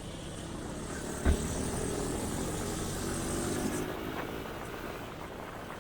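Motorcycle engine running with road and traffic noise, heard from on board during a ride through city streets, with a sharp low thump about a second in.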